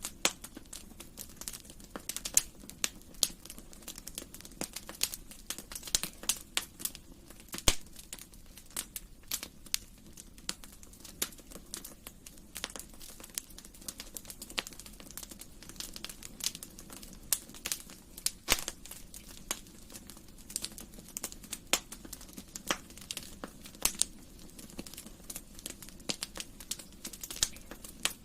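Wood fire crackling in a fireplace: irregular sharp pops and snaps, several a second, some much louder than others, over a soft steady hiss of the flames.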